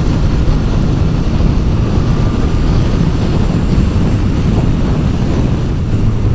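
Motorcycle riding along at road speed: a steady engine drone under heavy wind rush on the microphone.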